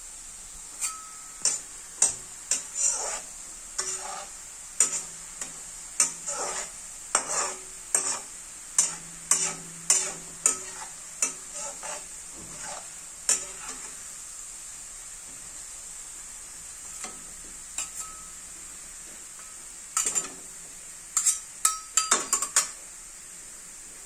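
Shredded potato deep-frying in oil in an iron kadai, with a steady sizzle. Metal slotted spoon and spatula scrape and clink against the pan in a run of stirring strokes, pause midway, then stir again near the end.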